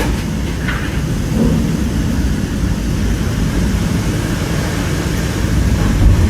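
Strong cyclone wind and heavy rain: a loud, steady rush with a deep rumble from the wind buffeting the microphone.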